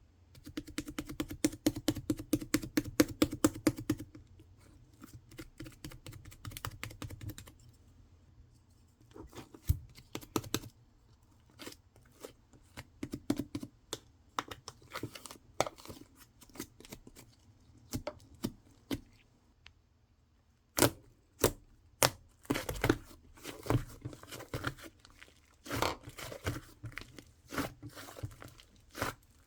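Slime being squeezed, pressed and poked by hand, giving trains of crisp clicks and crackles. Dense at first, then coming in shorter clusters with brief pauses, and louder again near the end.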